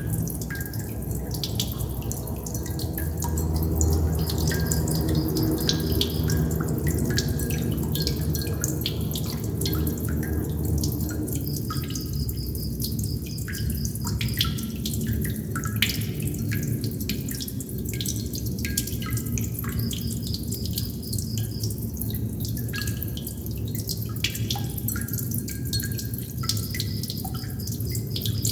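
Water droplets dripping in quick, irregular succession over a steady low rush of water. A short high trill comes back about every eight seconds.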